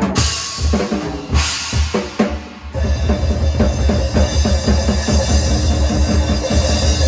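Drum kit played as a warm-up: two cymbal crashes in the first second and a half, then from about three seconds in a fast, steady run of drum hits over a bass drum.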